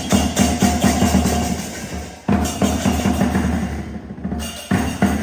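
Fast, loud drumming with crashing cymbals in lion-dance style. It breaks off and restarts abruptly about two seconds in and again near the end.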